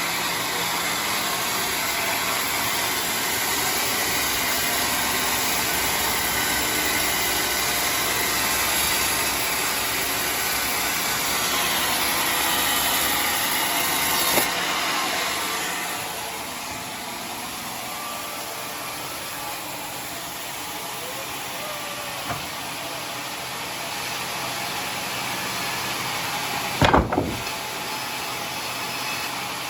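Sawmill saw running and cutting through a large log, a steady loud hiss of blade in wood. About halfway the high hiss drops away and the machine runs on more quietly, with a knock at the change and a sharp loud thump near the end.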